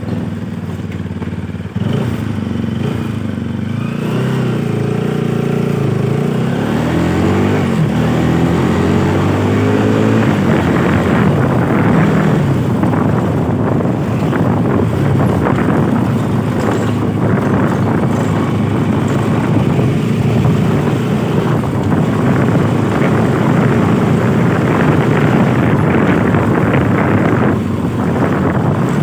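Bajaj Pulsar RS200 single-cylinder motorcycle engine running at a steady idle, then revving up in rising glides as the bike pulls away and shifts up, about six to ten seconds in. After that it runs under way with a steady rush of wind and road noise.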